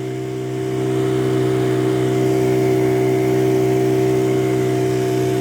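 A boat's small motor running steadily below full throttle, a constant drone whose level rises slightly in the first second and then holds.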